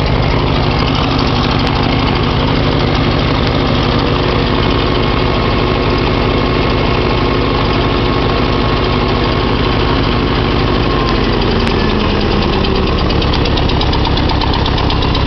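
1956 Farmall Cub's four-cylinder flathead engine idling steadily after a cold start, with its speed easing slightly lower about eleven seconds in.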